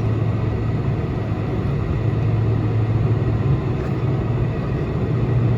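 Boeing 747-400 jet engines heard from inside the passenger cabin: a steady drone and hum, with no change in pitch or level, as the jet sits on the runway just before its takeoff roll.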